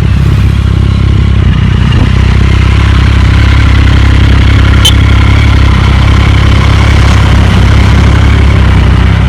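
Motorcycle engine running steadily at an even pitch, with a brief high click about halfway through.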